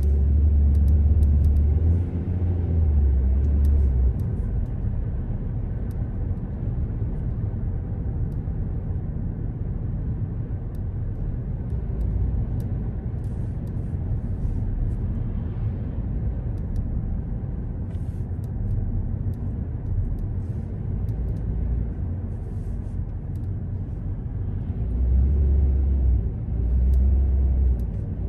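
A car being driven, with a steady rumble of road and engine noise. A heavier, deeper rumble swells during the first few seconds and again near the end.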